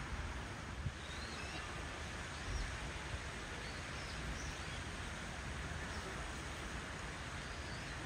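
Steady background hiss and low rumble, with faint, short, high bird chirps scattered through it.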